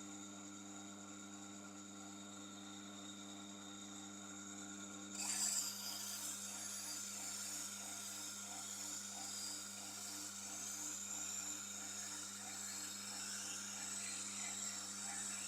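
Tormek sharpening machine running with a steady motor hum; about five seconds in, a knife blade is pressed against the turning wheel and rubs on it with a continuous scraping hiss that swells and eases.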